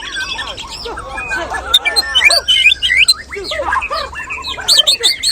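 Many caged white-rumped shamas (murai batu) singing at once, a dense, loud tangle of overlapping whistles, chirps and harsh squawks with no pause.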